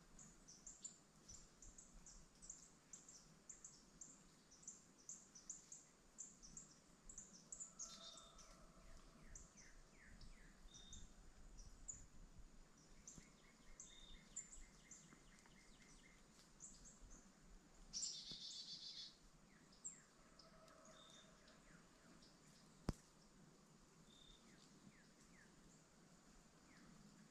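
Faint chirping of several small birds, many short high notes, with a buzzy call about eighteen seconds in. A single sharp click comes a few seconds later.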